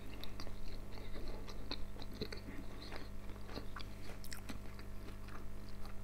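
A man chewing a mouthful of food with his mouth closed, with small, irregular wet mouth clicks.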